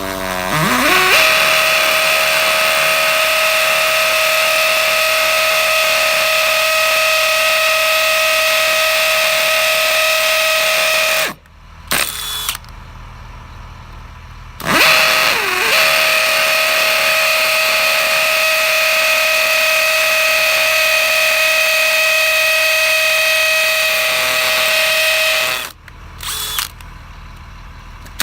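Power drill drilling holes for wall anchors in two long runs of about eleven seconds each. Each run rises in pitch as the drill spins up, holds a steady whine and then stops, followed by a short blip of the trigger.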